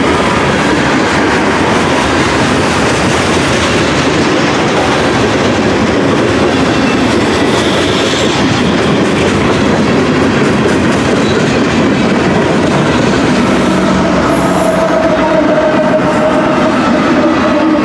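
Freight train of covered hoppers and boxcars rolling past close by, a loud steady noise of wheels and cars on the rails. Near the end a mid-train diesel locomotive passes, adding steady engine tones over the rolling noise.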